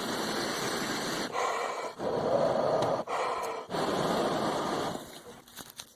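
A man blowing long breaths of warm air through his mouth onto a bird's frozen feet, one breath after another, each about a second long, stopping about five seconds in.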